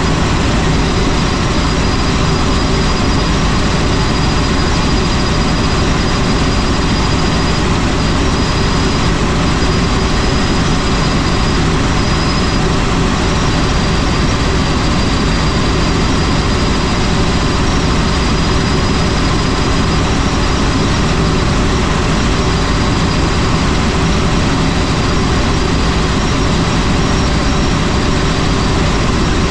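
Helicopter in flight: steady engine and rotor noise with a faint, thin high whine above it.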